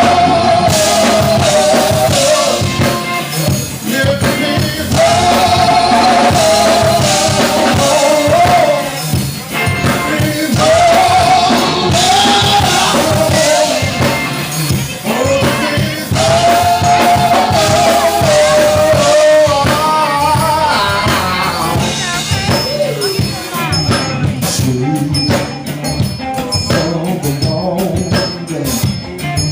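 A live band playing, with a wavering lead melody line in phrases of a few seconds over drums and percussion; sharper drum hits come in during the last few seconds.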